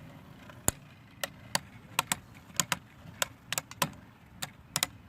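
Plastic-generation Beyblade spinning tops clashing in a stadium: a run of sharp plastic clicks, two to four a second at uneven intervals.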